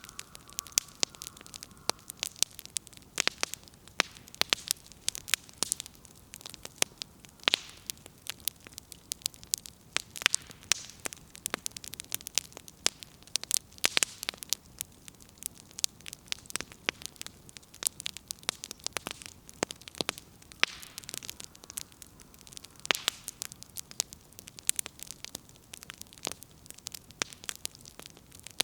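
Wood fire crackling, with irregular sharp snaps and pops, several a second, over a soft hiss of burning.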